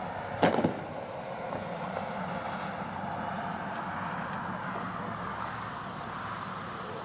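A distant artillery firework shell going off about half a second in: a sharp bang followed by a quick rattle of smaller reports. Then a steady background rush.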